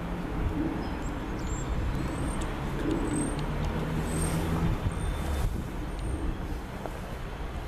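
Electric multiple-unit passenger train approaching slowly along a station platform: a steady low rumble and hum, with a few brief high squeaks in the middle.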